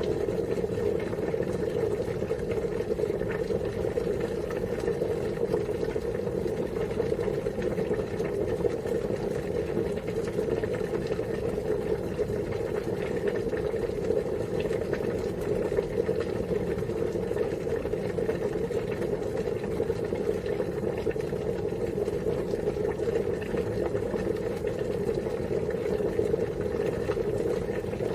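Water boiling: a steady, unbroken bubbling.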